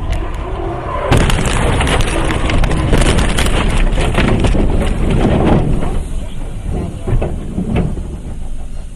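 Vehicle collision: a sudden loud impact about a second in, followed by several seconds of crunching, scraping and knocking that die away.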